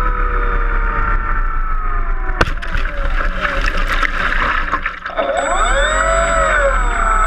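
Electric motor and propeller of an RC float-plane whining, falling in pitch as it is throttled back; about two and a half seconds in a sharp knock comes, followed by a couple of seconds of rushing, water-like noise. Near the end the motor whine swings up and down in pitch with throttle changes, over a steady high-pitched whine.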